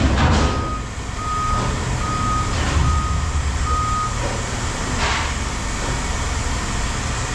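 A vehicle's reversing alarm beeping, a run of about six evenly spaced beeps over the first four seconds before it stops, over a steady engine rumble. A few sharp clanks sound in between.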